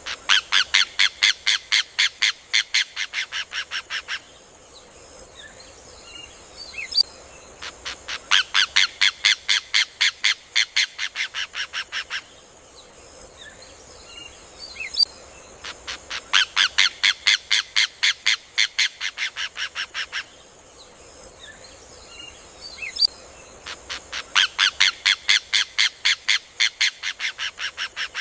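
Rufous hornero (João de Barro) singing in four bouts of rapid, loud repeated notes, about eight a second, each bout lasting about four seconds and fading toward its end, roughly every eight seconds. Faint short chirps and a steady high hiss between bouts.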